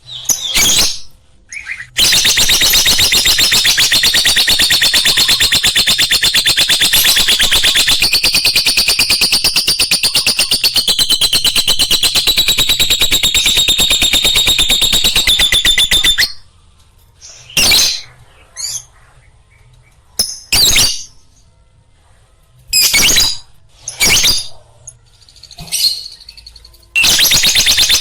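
Lovebird chattering song: a loud, continuous, very rapid high-pitched twittering. It breaks off about halfway through, leaving a few short separate sounds, and starts again near the end.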